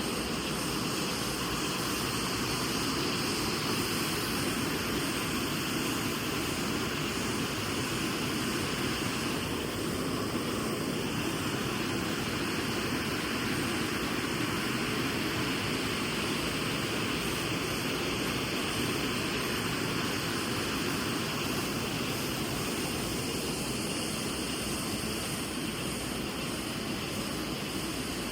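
Mountain river rushing steadily over rocks, an even unbroken roar of water.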